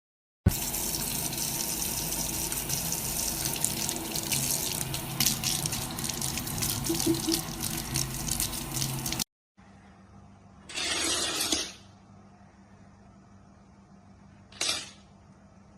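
Water running steadily for about nine seconds, then stopping abruptly. A quieter stretch follows with two short noisy bursts.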